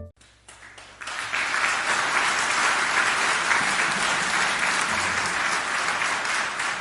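Audience applauding: dense, even clapping that fades in about a second in and cuts off sharply at the end.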